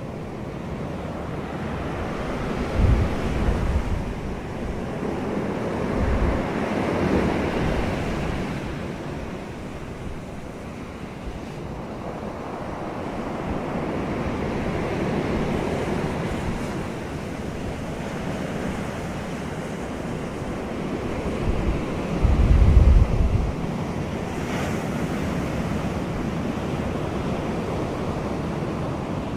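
Wind blowing outdoors with the rush of waves swelling and falling. Gusts buffet the microphone with low rumbles about 3 seconds in, again near 6 seconds, and most strongly around 22–23 seconds.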